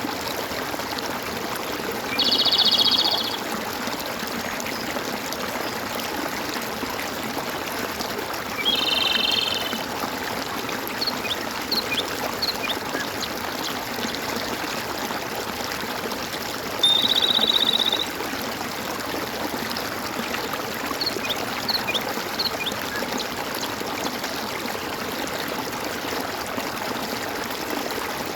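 Water gurgling and trickling steadily in a stream. Three times a high trilling call about a second long rings out over it, with a few short faint chirps in between.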